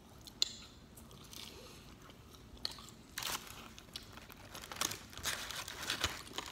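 Crunchy chewing and biting of pizza close to the microphone, then a paper wrapper crinkling as a breadstick is pulled from its box, with crackly bursts about three seconds in and louder, denser ones near the end.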